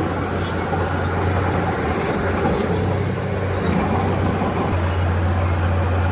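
Heavy diesel earthmoving machinery running steadily: a constant low engine drone under a dense mechanical rumble.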